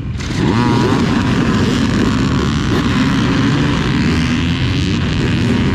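Several dirt bike engines revving and pulling away together, their pitches rising and falling over one another, under a loud rushing noise that starts suddenly.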